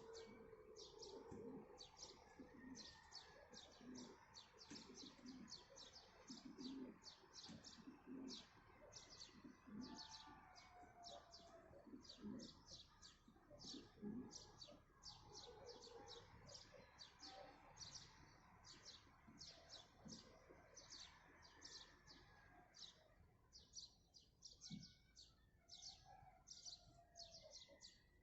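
Faint morning birdsong: a dense chorus of quick high chirps repeating about three times a second, with lower, shorter calls underneath that thin out towards the end.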